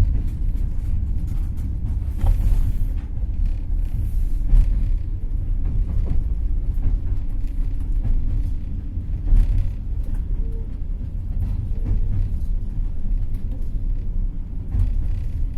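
Passenger train carriage rumbling along the rails as the train runs into a station, heard from inside the carriage, with a few faint knocks.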